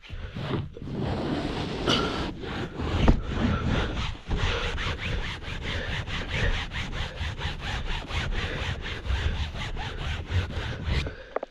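Someone scrubbing a chair with a wet cloth, back and forth: irregular rubbing at first, then about four quick scrubbing strokes a second.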